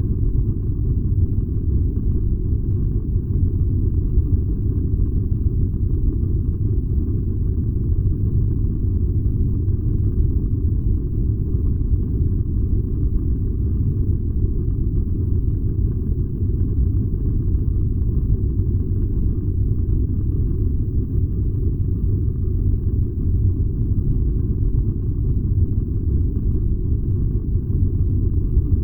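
Furnace running: a steady, deep rumble with no rhythm or changes.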